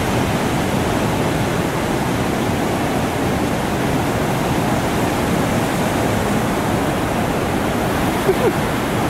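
Loud, steady rush of water and wind during a jet ski ride, with no clear engine note, and a brief faint chirp near the end.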